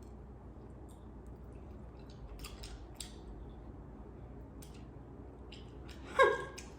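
Crinkly plastic candy wrapper being handled and opened, a few scattered short crackles. A brief hummed voice sound about six seconds in.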